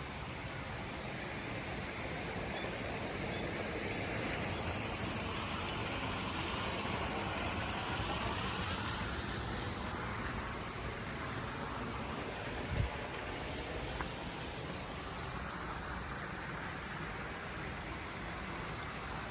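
A vehicle passing by on a road, its sound swelling and fading over several seconds, over a steady rushing hiss. A short dull thump comes about two-thirds of the way through.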